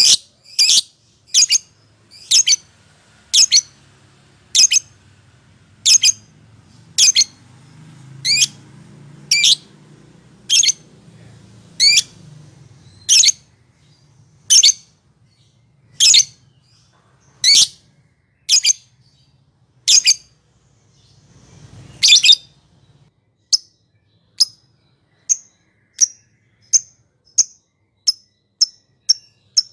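Lovebird calling with sharp, high chirping squawks about once a second. From about 23 seconds in they turn into shorter chirps that come faster and faster.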